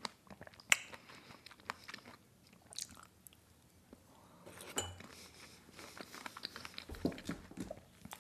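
Quiet chewing and mouth sounds of eating a chocolate-dipped strawberry, with a few sharp little clicks scattered through it.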